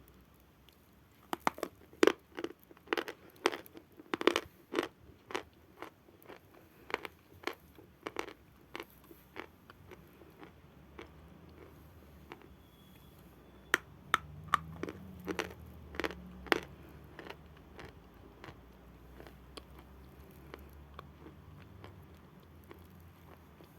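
Close-miked biting and chewing of lumps of natural chalk: a run of sharp, dry crunches at about two a second, thinning out about halfway through to scattered crunches with quieter chewing in between.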